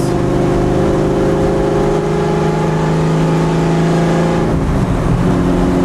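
Loud exhaust of a 1989 Fox-body Mustang race car without mufflers, heard from inside the cabin. The engine pulls steadily and rises slightly in pitch, then has a short break about four and a half seconds in and comes back lower in pitch, as on an upshift.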